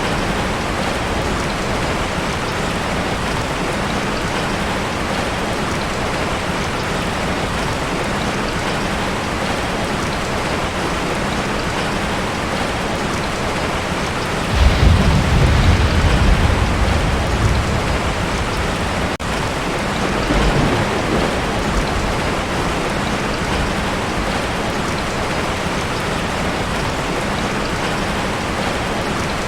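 Heavy rain drumming steadily on a tin roof. About halfway through, thunder breaks in with a deep rumble lasting a few seconds, and a lighter rumble follows shortly after.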